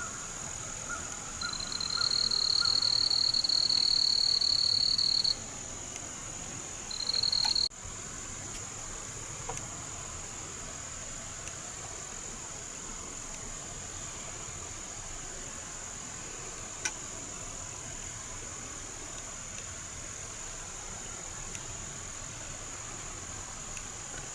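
Outdoor chorus of calling insects and frogs: a steady high-pitched whine throughout, with a louder, higher trill held for about four seconds near the start and again briefly a few seconds later.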